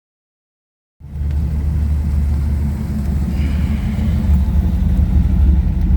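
Car engine running with a steady, deep low rumble, cutting in suddenly about a second in.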